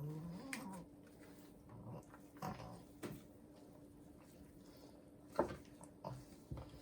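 Elderly pug making short grunts and snuffling breaths, a few separate ones spread over several seconds, the first drawn out and pitched.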